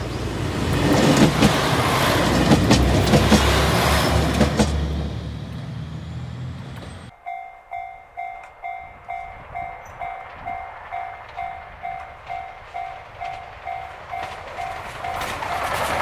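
A JR Shikoku 2000 series diesel train passes close by, its engines running and its wheels clicking over rail joints. After an abrupt cut, a level-crossing warning bell rings steadily about twice a second. The noise of the approaching train rises near the end.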